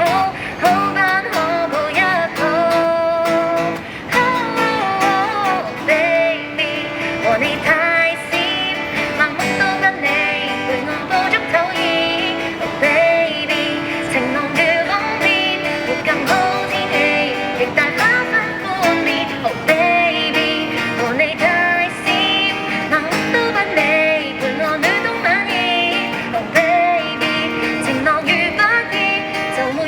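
A woman singing a Cantonese pop song live, accompanied by strummed acoustic guitar.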